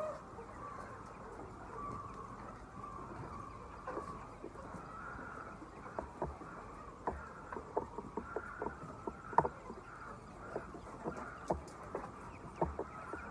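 A flock of chickens clucking and chirping steadily. Many short sharp taps or clicks come in from about halfway through.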